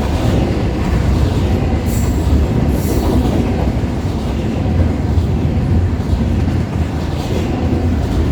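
Freight train cars rolling past with a steady, loud, low rumble and wheel clatter on the rails. A few brief high-pitched squeaks cut through about two to three seconds in.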